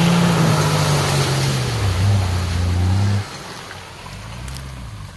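Four-wheel-drive engines revving hard under load while spinning tyres churn through mud and water, as a stuck vehicle is towed out of a bog hole. The engine noise drops sharply about three seconds in.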